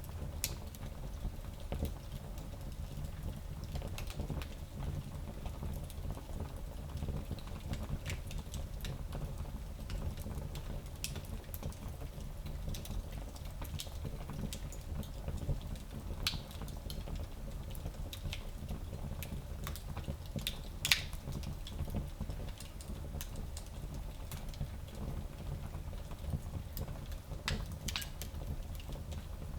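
Wood fire crackling in a small fireplace: irregular sharp pops and snaps over a steady low rumble, with the loudest pop about two thirds of the way through.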